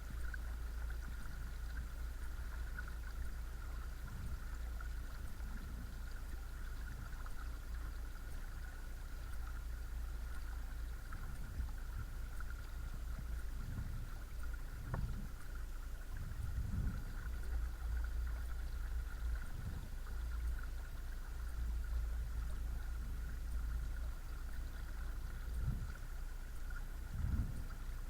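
Watersnake T24 12-volt electric trolling motor running steadily on its second speed setting: a constant high whine over a heavy low rumble, with a few soft low thumps.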